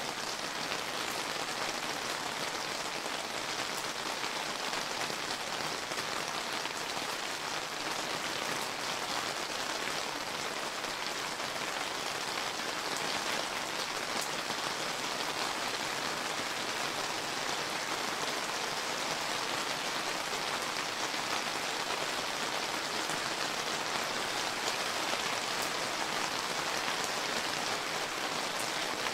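Steady rain falling on surfaces, an even hiss with faint separate drop ticks.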